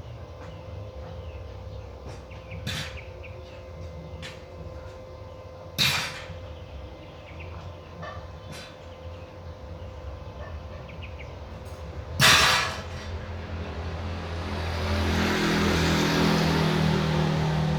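Three sharp knocks several seconds apart over a low hum, then an engine growing louder near the end.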